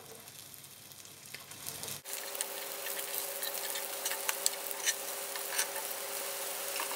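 Breaded sardine fillets frying in hot olive oil in a pan, a steady sizzle with scattered crackles and pops. About two seconds in it jumps to a louder sizzle with a steady hum alongside.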